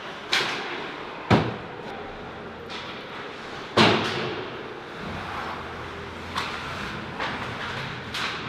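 Ice hockey game in an arena: a series of sharp cracks and knocks of sticks and puck against the boards that ring on in the rink. The loudest comes nearly four seconds in, over a steady background of arena noise.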